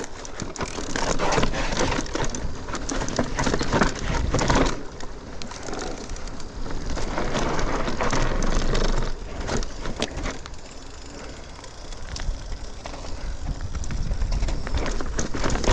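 Mountain bike riding down a rough dirt trail: tyres rolling over dirt and rocks, with a clatter of sharp knocks and rattles from the bike. It grows louder and quieter in stretches, easing off for a few seconds past the middle.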